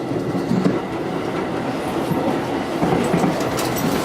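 A JR electric train running along the track, heard from inside the train: a steady rumble of wheels on rails, with a few light clicks a little after three seconds in.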